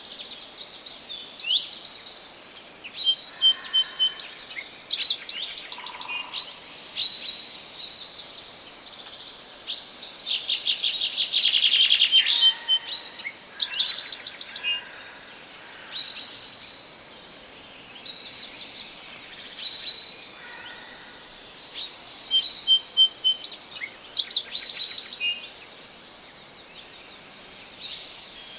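Several songbirds singing in a forest, one phrase after another: fast high trills and short runs of repeated chirps over a faint steady background hiss, with the loudest, longest trill about ten to thirteen seconds in.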